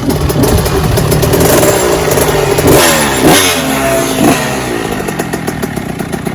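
Dirt bike engines running and revving at a motocross track, with their pitch rising and falling several times around the middle.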